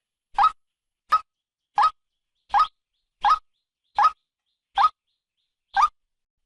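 Female white-breasted waterhen call, played as a trapping lure recording: a short rising note repeated about every three-quarters of a second, eight times, with dead silence between calls.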